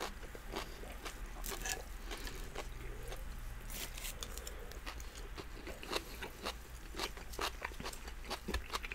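Close-up chewing and mouth sounds of people eating doner kebab and fries: an irregular run of small clicks and smacks.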